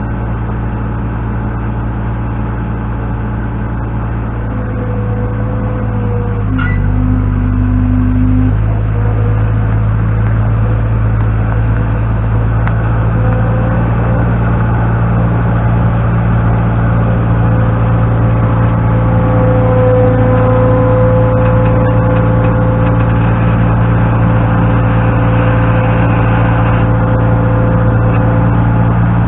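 Engine running steadily under load, getting louder a few seconds in as it works, with a short extra tone a little later; it is likely the machine used to lift a heavy pallet of cement bags.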